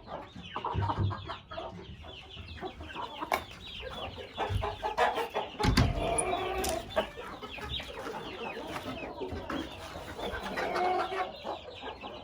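Several chickens clucking and chirping in short overlapping calls, with a couple of low thumps near the middle.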